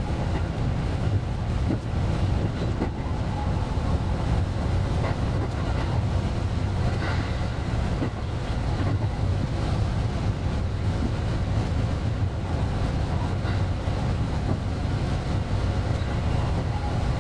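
Running noise of a JR West 223 series electric train, a steady low rumble of wheels on rail with faint clicks from the track.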